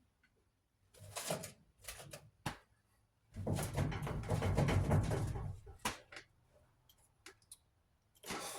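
Dryer parts being handled during disassembly: a few separate knocks and clicks, then about two seconds of continuous scraping and rattling, then scattered light clicks.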